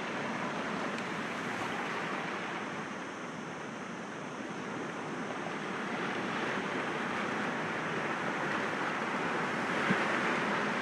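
Sea waves breaking gently against rocks: a steady wash of surf that swells louder in the second half, with a single small tick near the end.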